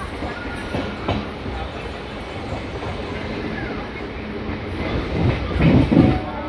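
Express passenger train running along the track: steady rumble of the carriage and wheels, with a few sharp wheel knocks about a second in and a louder clatter lasting about a second near the end.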